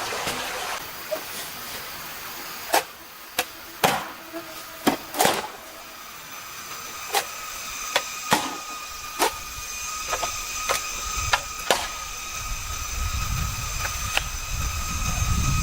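A dozen or so sharp, irregular knocks over the steady rush of a stream. A thin, steady high tone joins about halfway through.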